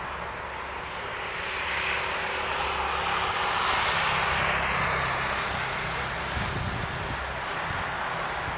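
Emirates Airbus A380 jet engines at takeoff power: a broad roar that swells to its loudest about four seconds in, with a high whine falling in pitch as it passes, then a low crackling rumble near the end.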